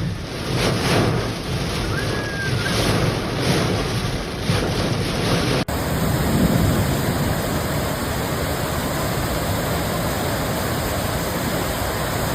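Storm-force wind gusting and buffeting the microphone in surges. About five and a half seconds in, the sound cuts abruptly to a steadier rush of wind noise.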